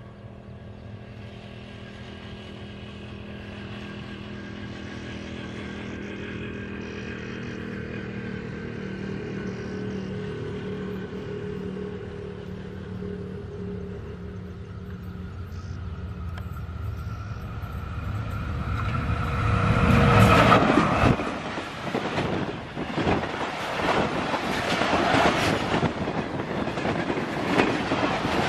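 Diesel locomotive of a passenger train approaching, its engine drone growing steadily louder, then passing close about twenty seconds in, followed by the coaches rushing past with wheels clattering over the rail joints.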